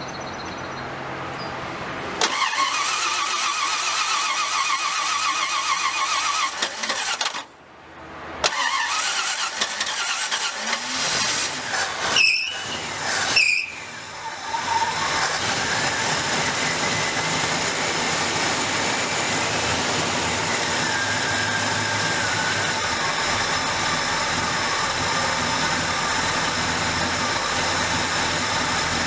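1963 Ford Galaxie 500's engine being started: the starter cranks with a fast pulsing sound, there are several uneven tries, and about halfway through the engine catches and runs steadily.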